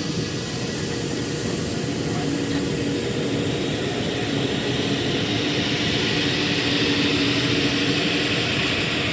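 Jet airliner engines, a steady rush with a low hum, slowly growing louder toward the end as the aircraft comes nearer.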